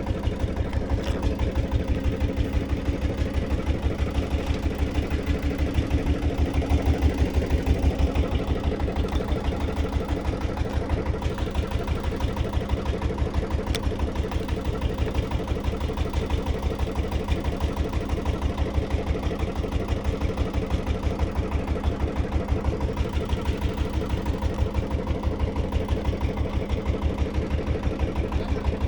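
An engine running steadily with an even, rapid thudding beat, a little louder about six to eight seconds in.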